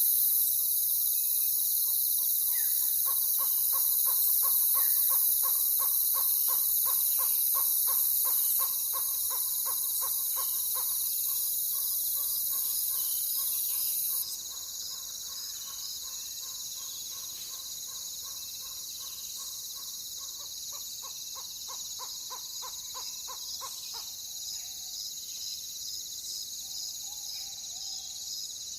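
An owl giving a long, rapid series of evenly repeated hoots, about three a second, in two runs, stopping about four seconds before the end. A steady high chorus of crickets runs underneath.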